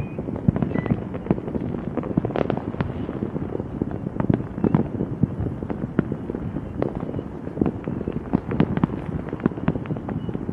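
Fireworks going off in a dense, irregular barrage of sharp cracks and bangs with no pause between them.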